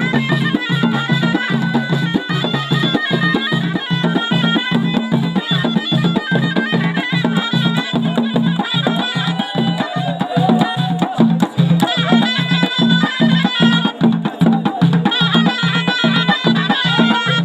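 Moroccan ghaita, a double-reed shawm, playing an ornamented folk melody over a steady, quick drum beat.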